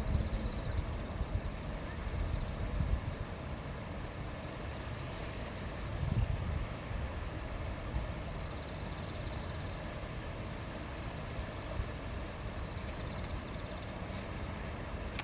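A river babbling steadily over its bed, with a low rumble that swells a few times and a faint high trill that comes and goes in short bouts.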